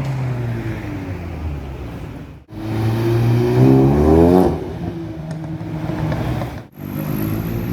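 Car engines accelerating hard in short clips separated by two abrupt cuts. In the middle clip a car revs up loudly with rising pitch, then backs off about four and a half seconds in.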